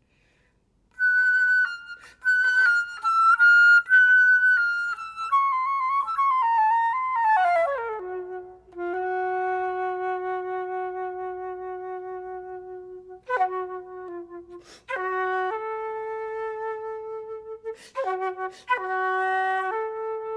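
Concert flute playing alone. It enters after about a second of silence with quick high notes, runs down to a long held low note, then plays a few short notes and settles on another held note.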